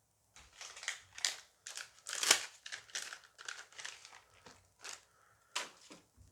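Small booster-pack wrapper being torn open and crinkled by hand: a run of short crackling rustles, the loudest tear about two seconds in.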